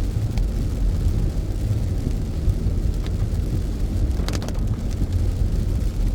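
Road noise inside a moving car: a steady low rumble of engine and tyres, broken by a few short sharp ticks, a small cluster of them a little past four seconds in.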